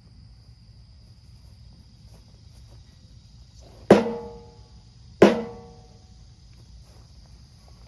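Two sharp knocks about a second and a half apart, each ringing briefly like struck metal, over a steady high drone of insects.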